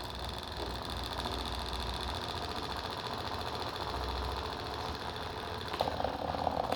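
Small electric motor running steadily with a fast mechanical rattle; the clattering grows louder near the end.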